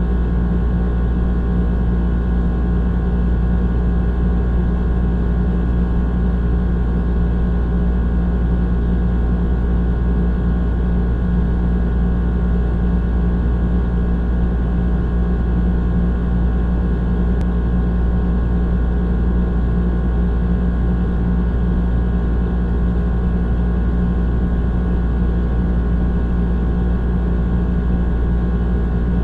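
Old air conditioner running: a steady deep hum with several constant tones above it, unchanging throughout.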